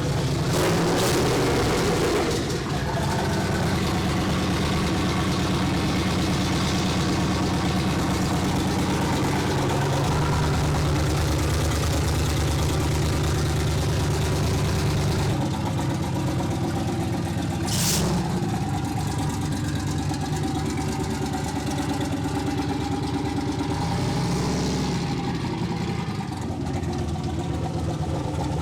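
A vehicle engine running steadily at an even pitch, with one sharp short sound about eighteen seconds in and a brief rise and fall in pitch near the end.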